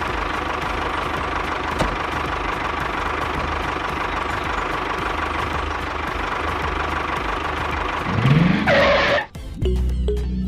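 A motor running steadily with a faint steady hum, rising in pitch near the end before cutting off abruptly. Light music with mallet percussion follows in the last second.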